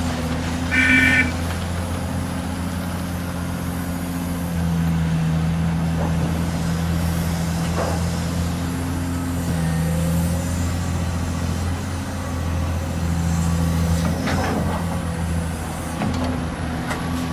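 Diesel engine of heavy earthmoving machinery running steadily, its note swelling several times as it works under load. A short high beep sounds about a second in, with a few faint knocks later.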